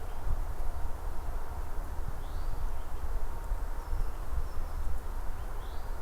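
Forest ambience picked up by a trail camera microphone: a steady low rumble and hiss, with two faint short bird chirps, one about two seconds in and one near the end.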